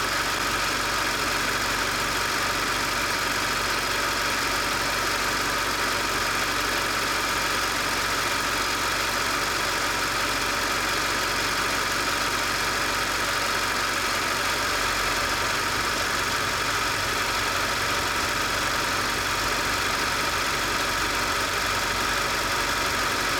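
Car engine idling steadily: a constant, unchanging mechanical hum with a hiss on top.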